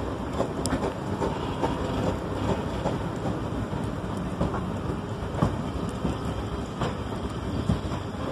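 Carriage of a steam-hauled heritage train running along the line, heard from an open carriage window: a steady rumble with irregular knocks and clatter from the wheels on the track.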